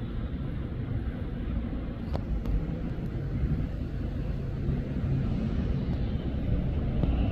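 Train at a station platform, a steady low rumble that grows slightly louder in the second half, with a single sharp click about two seconds in.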